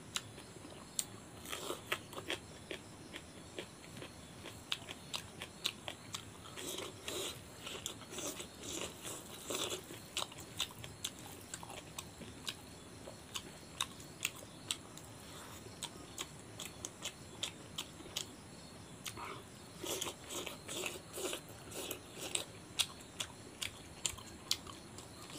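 Close-miked eating sounds: a person chewing and biting a meal of rice and curry eaten by hand, with many short wet mouth clicks and crunchy bites, a few each second.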